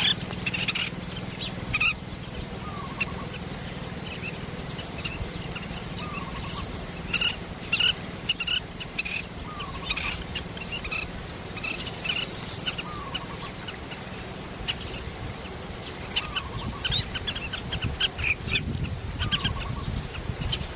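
Birds calling: many short, high chirps, with a lower call that slides down in pitch repeating every two to three seconds.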